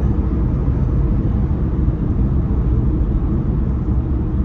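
Steady low rumble of road and engine noise inside a rental car's cabin while it drives at road speed.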